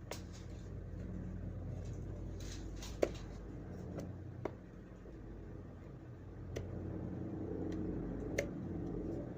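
Supercapacitor spot welder firing: about five sharp snaps spread over several seconds as the electrodes discharge into the metal, the loudest about three seconds in. A faint low hum lies under them.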